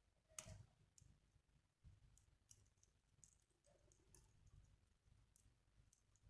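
Wood fire crackling faintly, with scattered sharp pops and clicks; the loudest pop comes about half a second in.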